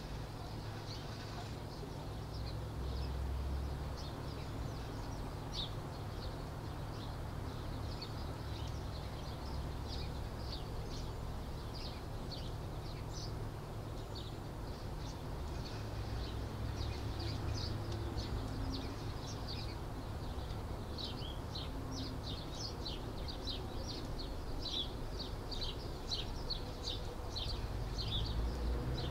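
Small birds chirping: short high calls repeated in quick series, thickest in the last third, over a steady low background rumble.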